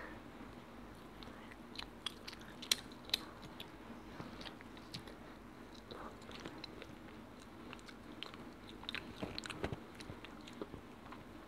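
A child chewing spicy chicken close to a clip-on microphone: soft wet mouth clicks and small crunches. They come in a cluster about two to three seconds in and again near the end.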